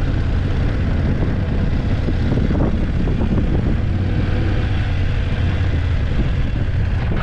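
BMW F850GS motorcycle's parallel-twin engine running at a steady pace while riding, a constant low rumble.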